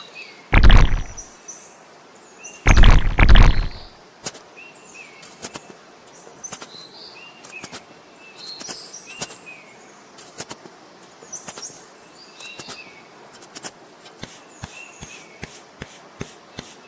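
Small birds chirping again and again, with two loud, low bursts of noise in the first few seconds and a run of sharp clicks, about three a second, near the end.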